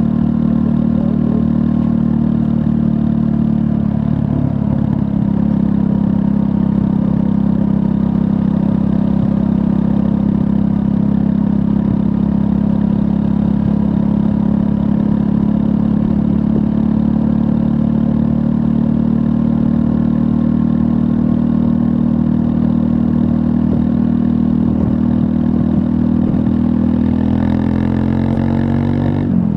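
Triumph Scrambler 400 X's 398 cc liquid-cooled single-cylinder engine running steadily under way, rising in pitch near the end as the revs climb.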